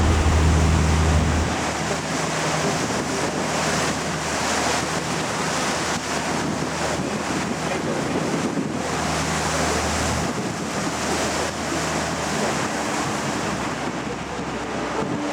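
Wind and water rushing past a moving Hakone sightseeing cruise ship, an even rush of noise, over the low hum of the ship's engine, which is strongest in the first second and a half.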